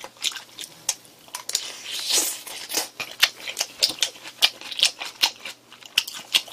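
Close-up chewing of a mouthful of spicy stir-fried pork: irregular wet smacks and clicks from the mouth, with light taps of a fork against a glass bowl.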